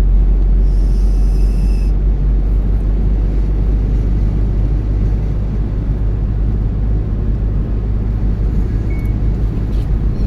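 Steady low rumble of a car driving, engine and tyre noise heard inside the cabin. A faint brief high tone sounds about a second in.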